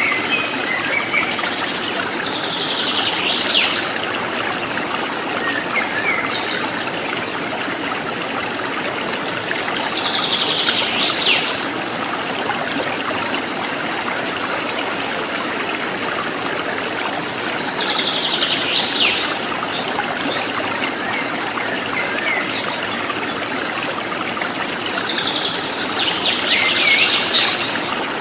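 Stream water trickling steadily, with a bird giving the same short, high call four times, about every eight seconds.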